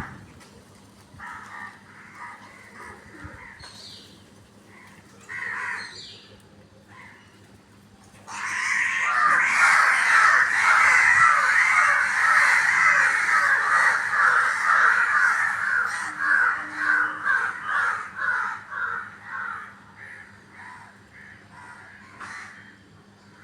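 Crows cawing: scattered calls at first, then from about eight seconds in a loud, dense chorus of many crows calling over one another, which thins into separate repeated caws and fades near the end.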